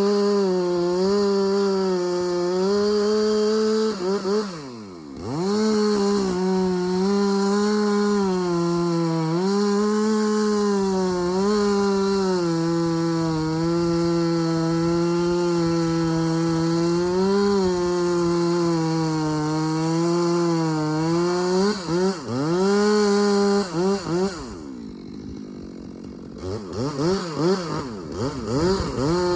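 Two-stroke chainsaw held at high revs while cutting wood, its pitch sagging and recovering under load, with a brief dip about five seconds in. Near the end it drops to idle and is then revved in several quick blips.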